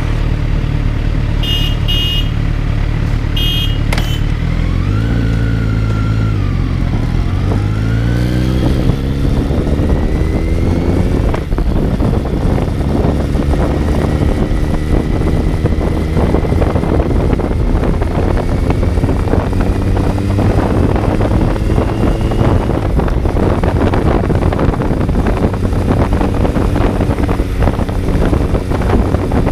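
Kawasaki Z900's inline-four engine heard on board: idling at first, with three short electronic beeps in the first few seconds, then revved up and down once, then pulling away and accelerating, its pitch climbing again and again as it goes up through the gears while wind noise builds.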